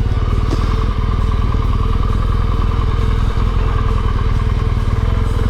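Motorcycle engine running at a steady speed, its firing pulses even and unchanging, under the ride.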